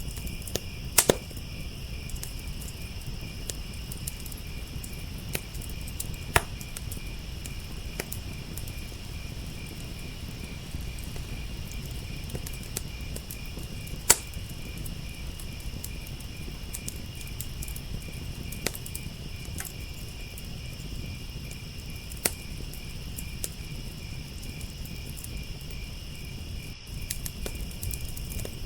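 Crickets chirping in a steady, pulsing chorus while a wood fire in a firepit crackles, with sharp pops every few seconds, the loudest about a second in and about halfway through.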